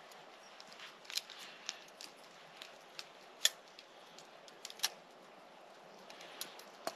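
Campfire crackling: a few sharp, irregular snaps from the burning wood over a faint steady hiss, the loudest about halfway through.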